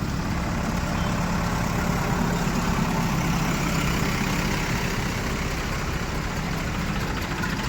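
Heavy diesel engine running steadily at mud-loading work.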